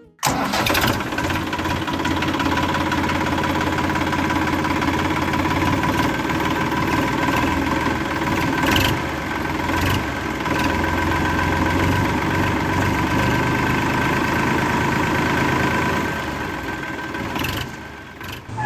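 Motor of a DIY miniature toy tractor running steadily with a steady whine, starting abruptly and dying down near the end.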